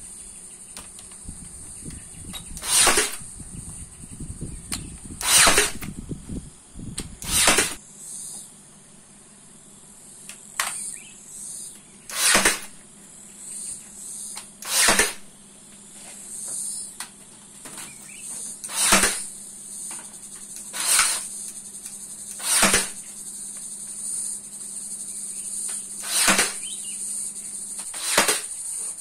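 Insects chirring steadily in a high, even band, with about ten loud, short sounds repeated irregularly every two to three seconds over it; a low rumble in the first few seconds stops about eight seconds in.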